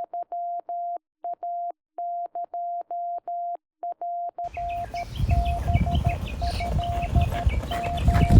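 Morse code: a single steady beep tone keyed in dots and dashes. About four seconds in, a low wind rumble and short chirping birdsong come in under the beeps, with a brief louder gust near the end.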